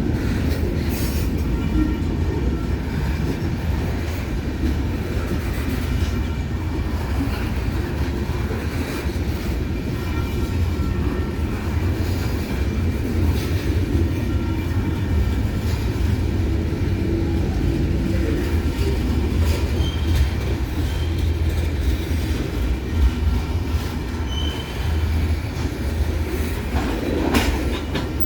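Train rolling past with a continuous low rumble of wheels on rail, and thin high wheel squeals now and then, more of them near the end.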